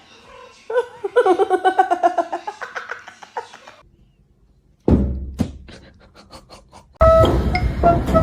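A person's voice for the first few seconds, then a sudden thump about five seconds in followed by a run of fading clicks, and music starting near the end.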